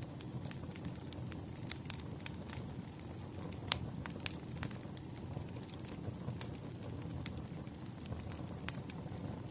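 Wood fire burning: a steady low rumble of flames with scattered sharp crackles and pops, the loudest pop a little under four seconds in.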